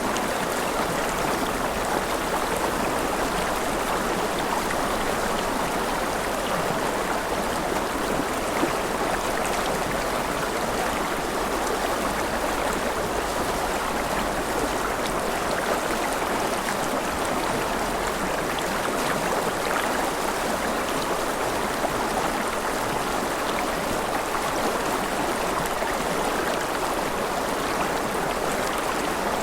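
Mountain river rushing steadily over rapids, a continuous even roar of flowing water.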